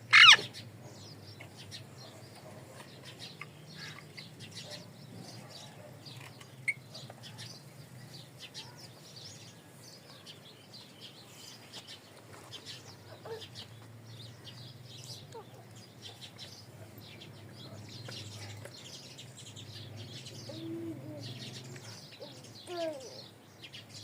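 Parrots chirping and chattering in many short high notes, with one loud sharp call at the very start and a few lower calls near the end, over a steady low hum.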